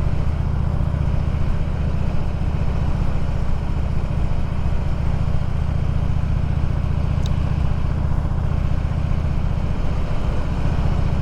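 Motorcycle engine running steadily at cruise with a constant low drone, over an even rush of wind and road noise.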